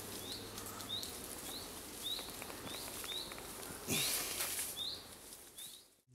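A bird calling over and over in woodland with a short rising chirp, every half second or so. A brief rustle comes about four seconds in, and the sound drops away near the end.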